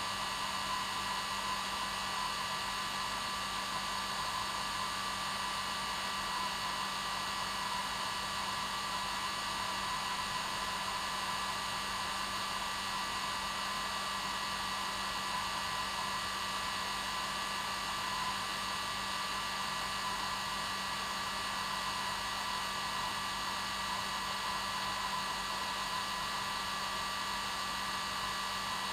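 Hair dryer running steadily with a constant whooshing blow and an even motor whine, unchanging throughout.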